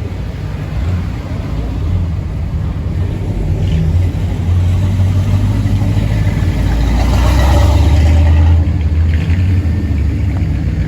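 Car engine with a deep exhaust rumble as a car drives past, growing louder to its loudest about seven to eight seconds in, then easing off.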